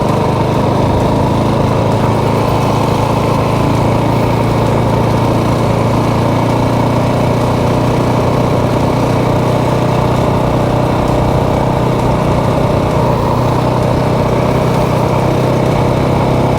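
Motorcycle engine running with a steady, unchanging note.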